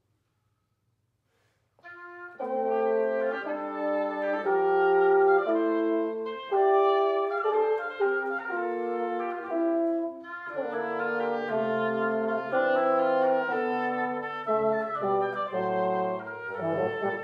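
Wind quintet of flute, oboe, clarinet, French horn and bassoon playing live. After about two seconds of silence the ensemble enters with held, overlapping notes in several parts. Brief breaks come about six and ten seconds in.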